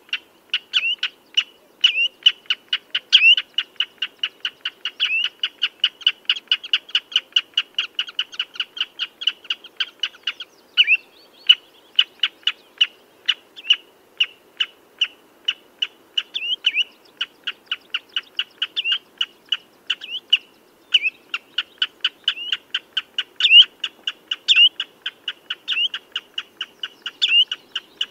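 Common redshank calling: short, high piping notes repeated rapidly, about three or four a second, in a continuous series with a brief break about ten seconds in.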